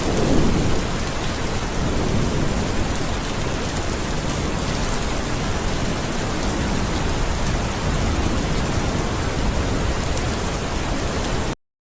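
Steady rain falling, an even hiss across all pitches, with a brief low rumble of thunder in the first second. It cuts off abruptly near the end into silence.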